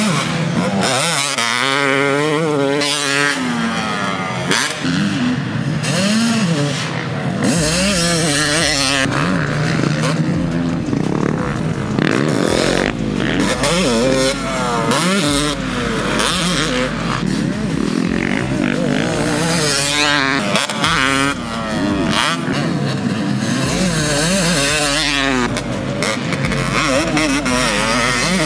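Yamaha YZ250 two-stroke dirt bike with a Pro Circuit works pipe, ridden hard. The single-cylinder engine revs up and falls back again and again as the rider accelerates, shifts and backs off.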